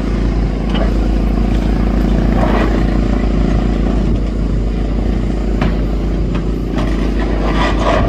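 Demolition excavator's diesel engine running steadily, with a few short knocks and clatters of debris.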